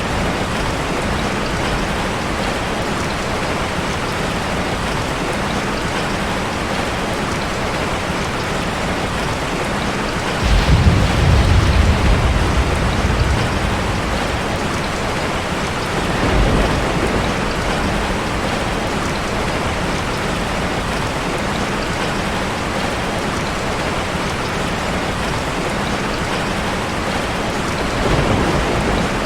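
Heavy rain falling steadily on a car. A low rumble of thunder comes in suddenly about ten seconds in and lasts a few seconds, with two fainter rumbles later.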